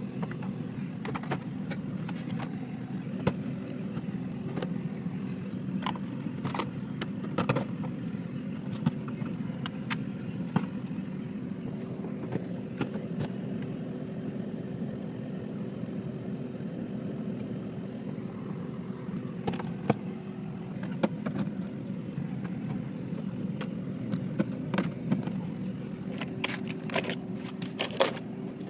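A steady low hum with many short, light clicks and knocks scattered over it, coming thickest near the end.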